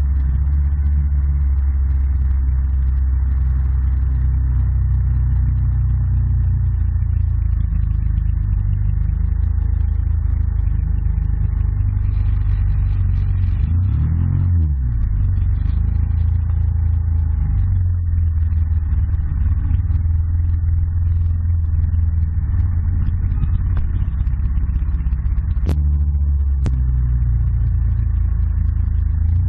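Yamaha ATV engine running steadily under way. Its pitch drops and then climbs again about halfway through as the quad slows and speeds back up. Two sharp clicks come near the end.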